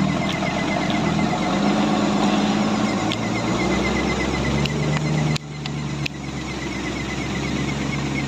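A heavy machine's engine running steadily, its pitch settling lower about halfway through. A faint, fast ticking sits high above it, and the sound dips abruptly twice near the end.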